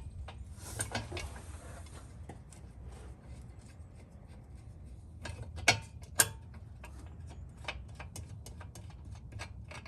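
Scattered light metallic clicks and clinks of hand tools and nuts being run onto the exhaust test pipe's flange bolts, with two sharper clicks about six seconds in, over a low steady hum.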